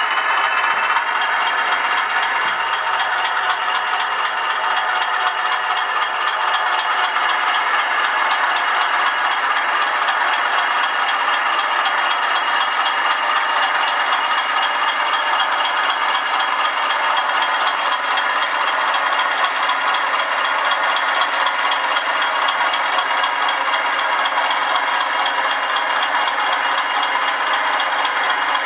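00 gauge Bachmann Class 20 model diesel locomotive running on the track: a steady, tinny diesel-engine rattle from its DCC sound decoder's small speaker, along with the running noise of the model.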